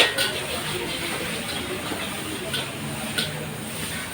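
Wok cooking at a fried-rice stall: a steady frying hiss broken by a few sharp metal clinks of the spatula against the wok, the loudest right at the start.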